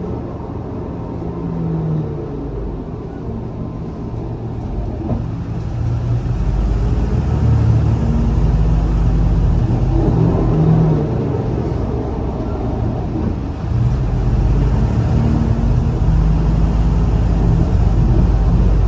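Scania L94UA bus under way: a steady low engine rumble, with the engine note shifting up and down, that grows louder about six seconds in as the bus pulls harder.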